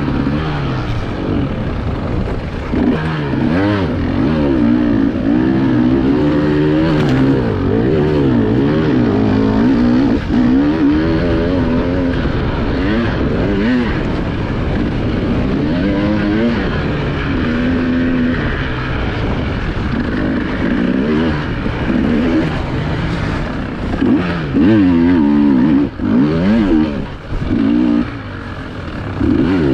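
Enduro motorcycle engine revving hard and constantly rising and falling in pitch as the throttle is worked, heard from a camera on the bike, with brief throttle cuts near the end.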